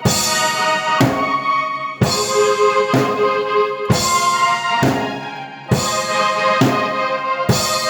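Drum kit and keyboard playing together: sustained keyboard chords under heavy drum hits about once a second, easing off briefly around five seconds in before the hits return.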